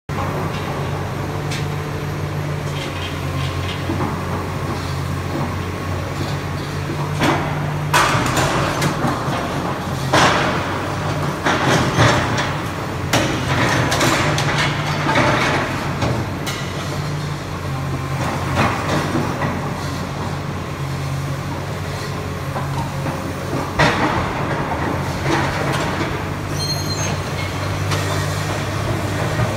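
Excavator's diesel engine running steadily, with loud metal clanks and knocks from the machine at work, mostly in the middle stretch and once more later on.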